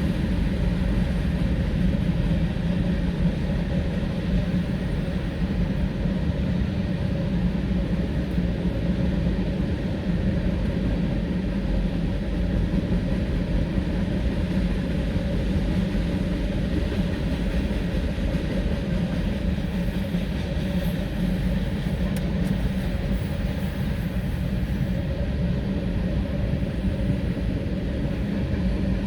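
Mixed freight train rolling past, a steady unbroken rumble of wheels on rail.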